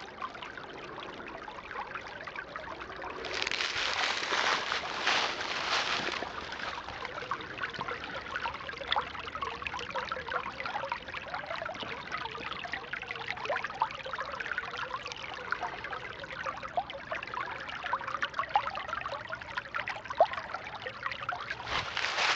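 Shallow creek water trickling and babbling over rocks, a steady run of small splashes. It swells to a fuller rush for a few seconds, about three seconds in.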